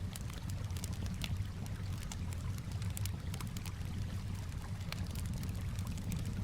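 Campfire crackling, with many small sharp pops scattered irregularly, over a steady low wash of calm water.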